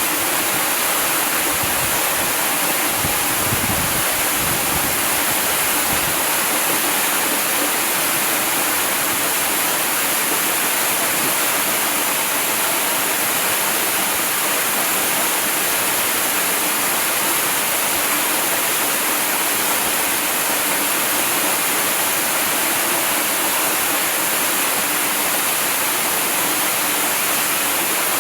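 Waterfall: a steady, unbroken rush of falling water with a bright hiss, with a few low rumbles in the first several seconds.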